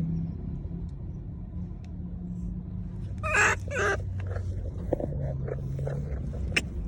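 A monkey calling: two loud, high, wavering calls a little over three seconds in, followed by a run of shorter, fainter calls. A steady low hum runs underneath.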